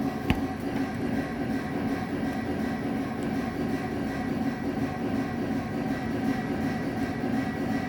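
One sharp bang about a third of a second in, carried through the flat's structure from a neighbour's unit, over a steady droning hum that runs throughout.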